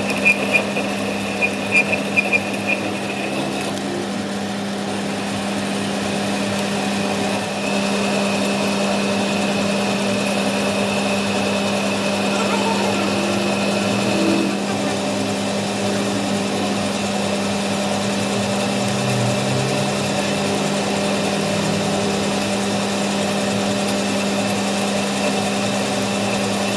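A workshop machine's electric motor running at a steady speed with an even hum. A few sharp ticks come in the first three seconds.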